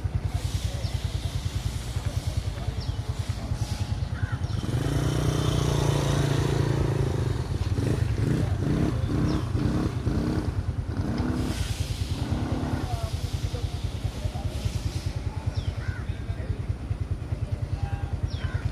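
Honda Dash motorcycle's single-cylinder four-stroke engine idling with a steady rapid pulse, growing louder for a couple of seconds about five seconds in.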